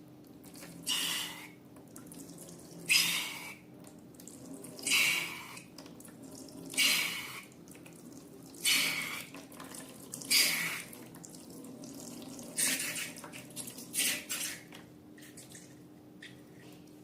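Wet slime squelching as it is squeezed by hand, in noisy bursts about every two seconds, shorter and closer together near the end.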